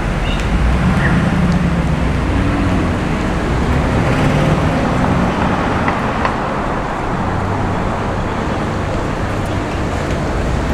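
City street traffic noise: a steady wash of passing cars and engine hum.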